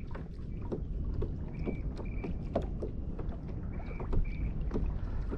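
Motorized kayak under way on a river: a steady low rumble of water and wind, with scattered light ticks and splashes. A short, high two-note chirp recurs every couple of seconds.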